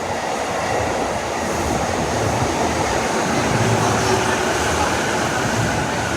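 Rinkai Line 71-000 series electric train running into the station platform, its running noise growing steadily louder as it approaches.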